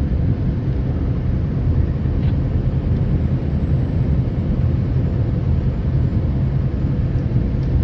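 Steady low rumble of a truck running, engine and road noise.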